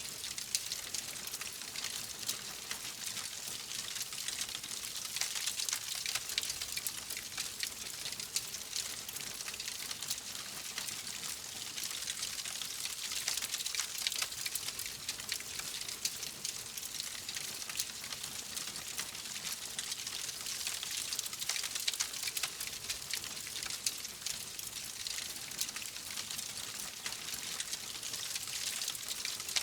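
Wood fire crackling and hissing steadily, a dense run of many small pops and snaps.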